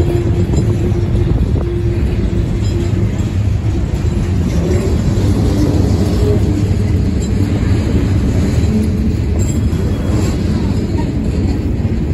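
Manifest freight train's covered hoppers and boxcars rolling past, a steady rumble of steel wheels on the rails.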